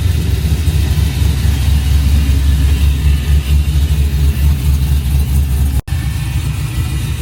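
Steady low rumble of a truck running, heard from inside the cab, cutting out for a moment about six seconds in.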